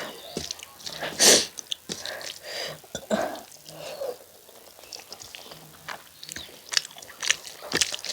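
Close-up eating sounds of a meal of rice and chicken curry: wet chewing with many short mouth clicks and smacks, and a loud bite about a second in.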